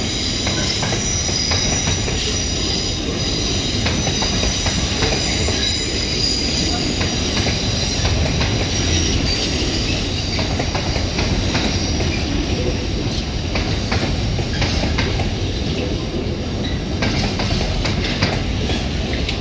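Container wagons of an intermodal freight train rolling past. Their wheels give a steady high-pitched squeal that fades out about halfway through, over the continuous rumble and repeated clicks of wheels running over the rail joints.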